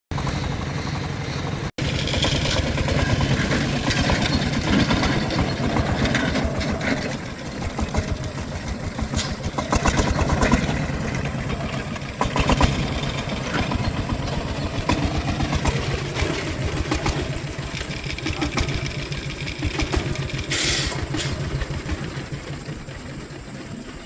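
A vehicle engine running steadily, with a fast, even firing pulse. There is a brief dropout about two seconds in and a short hiss near the end.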